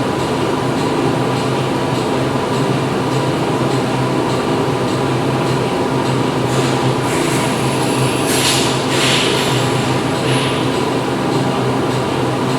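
Factory machinery running with a steady, dense drone and several constant hum tones. In the middle of the stretch it is joined for a few seconds by rushes of hiss that come and go.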